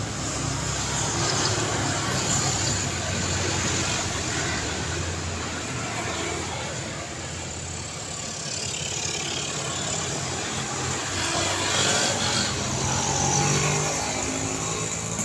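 Road traffic: a steady wash of engine and tyre noise from passing cars, swelling louder as vehicles go by near the start and again around twelve to fourteen seconds in.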